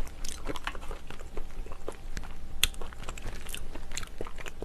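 Close-miked chewing and mouth sounds of a person eating seafood stew with monkfish and clams, made of irregular short clicks.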